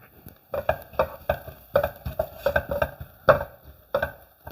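A spoon knocking and scraping against a pan in a run of about a dozen irregular clacks while stirring spice powders into sautéed onions.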